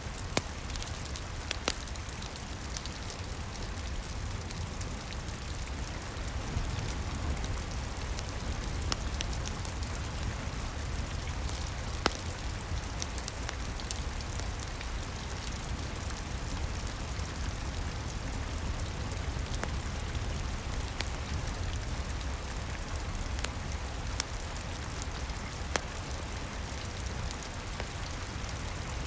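Steady rain with a low rumble underneath, and a log fire crackling with a few sharp pops, the loudest about twelve seconds in.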